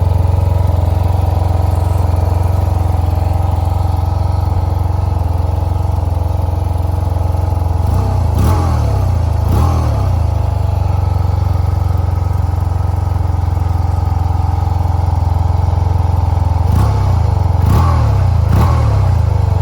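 Yamaha TMAX 560's parallel-twin engine idling steadily through its exhaust, with short throttle blips: two about eight and ten seconds in, and three more in quick succession near the end.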